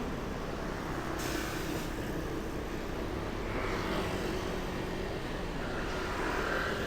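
Steady road traffic noise heard from a moving bicycle on a city street, with a short hiss about a second in.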